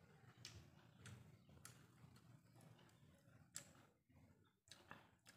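Faint eating sounds: a handful of separate sharp mouth clicks and smacks from chewing a mouthful of rice and greens.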